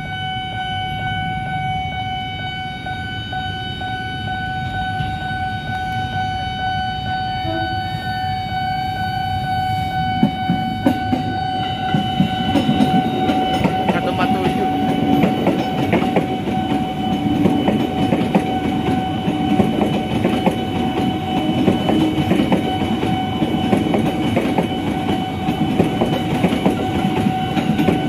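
JR 205 series electric commuter train approaching and then passing close by, its wheels clattering over the rail joints; the rumble grows louder from about twelve seconds in. A steady high warning tone from the level-crossing alarm sounds throughout.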